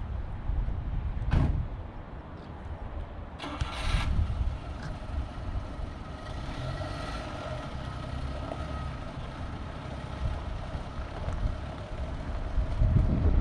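A motor vehicle running with a steady low rumble, with a sharp knock about a second in and a brief louder rattle a few seconds in.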